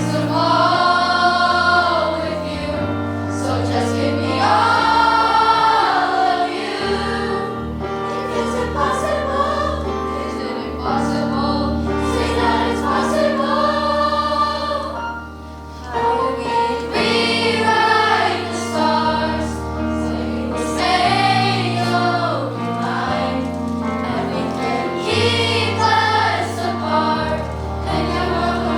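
Middle school choir singing a pop song over a musical accompaniment with sustained bass notes. The sound dips briefly about halfway through before the voices come back in.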